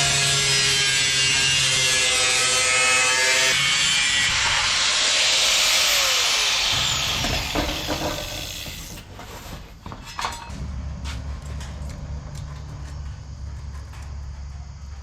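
A power tool running loudly, with a steady motor whine and cutting hiss. Its pitch falls as it winds down about seven seconds in, leaving a quieter low steady hum.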